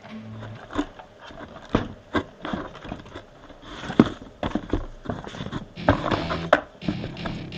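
Irregular clicks, knocks and rustling of hands handling plastic toy gear and packaging. Background music comes back in near the end.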